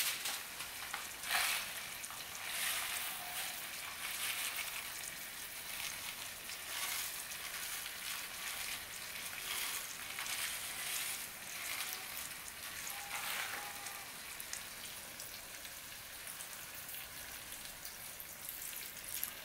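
Butterfish (a grouper) pieces and chopped vegetables frying in a pan, a steady sizzle with a few brief louder swells.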